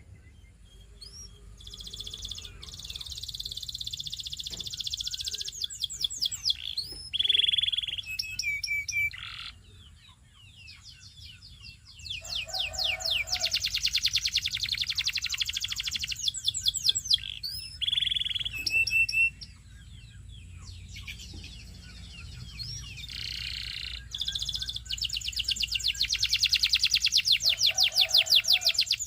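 Canary singing: long phrases of fast trills and rolls, broken by a few short single notes and brief pauses between phrases.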